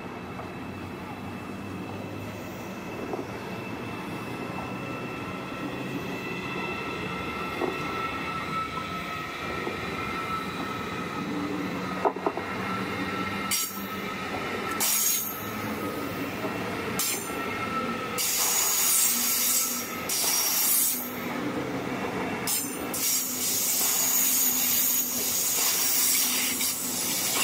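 Deutsche Bahn ICE 4 (class 412) high-speed train rolling slowly into the station, its drive giving a steady whine. From about halfway on, its wheels and brakes squeal in repeated high, sharp bursts as it slows, louder toward the end.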